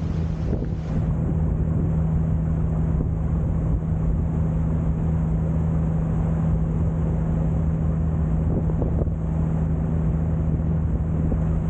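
Sightseeing boat's engine running steadily with a constant low hum, over a steady wash of wind and water noise.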